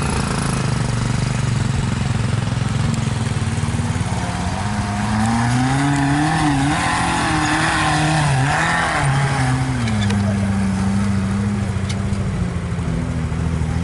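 Motor vehicle engines running; one revs up about four seconds in, its pitch wavering, and eases back to a steady run near ten seconds.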